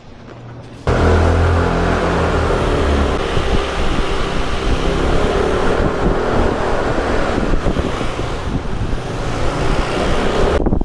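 Road traffic noise, with vehicle engines running and passing, coming in abruptly about a second in.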